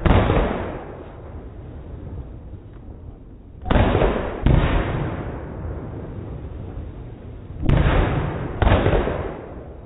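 Aerial fireworks bursting in the air: five sharp booms, each rumbling away over about a second. One comes right at the start, then two pairs about a second apart, the first pair about four seconds in and the second near the end.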